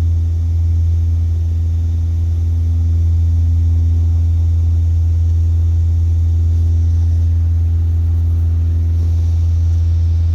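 Hyundai Veloster Turbo's 1.6-litre turbocharged direct-injection four-cylinder idling steadily, heard from inside the cabin, just after an intake valve cleaner treatment has been run through it.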